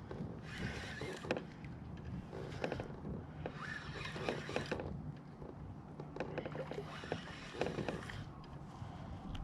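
Kayak angler reeling in a hooked catfish: four or five irregular bursts of splashing and handling noise, about a second each, with scattered knocks against the kayak, over a steady low hum.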